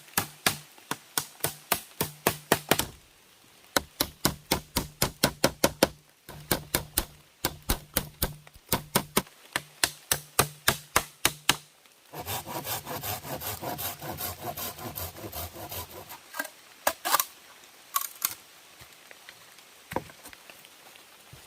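Wood being worked with a hand tool. Quick, even strokes come about four to five a second for roughly twelve seconds, with short pauses. A few seconds of steady rasping follow, then a few separate knocks.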